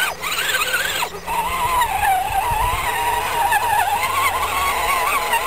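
Radio-controlled 1.9-scale crawler truck's electric motor and gearbox whining, the pitch wavering up and down with the throttle as it crawls over the course. It cuts out briefly near the start and again about a second in.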